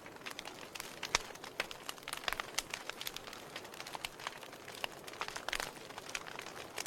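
Wood fire burning in a fireplace, crackling with irregular sharp pops over a soft steady hiss, one louder pop a little over a second in.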